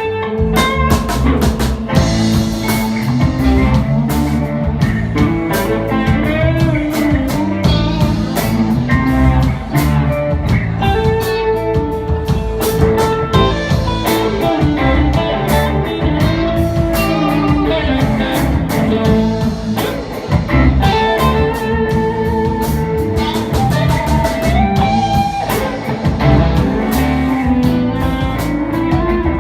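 Live blues band playing a slow blues: guitar lines with bending notes over bass and a drum kit keeping a steady beat.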